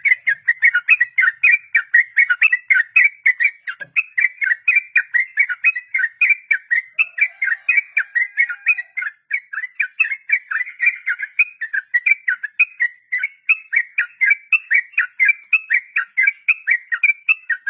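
Yellow-vented bulbul (trucuk) singing a long, unbroken ropel: a fast run of whistled, chattering notes, about five a second, that never pauses.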